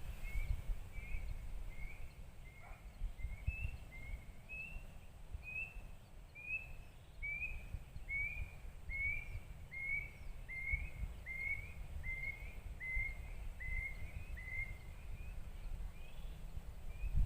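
A single bird repeating one short chirp about twice a second, each note a quick hooked whistle at the same pitch, with a brief pause near the end. A low, uneven rumble runs underneath.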